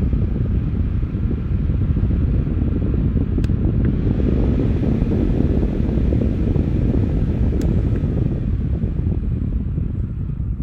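Minthouz portable clip-on USB mini fan running, its airflow buffeting the microphone as a low rumble, with a faint motor whine. The sound brightens about four seconds in and dulls again near the end.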